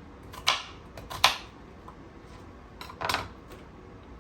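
Kitchen knife striking a cutting board three times, sharp knocks, while an onion is being cut.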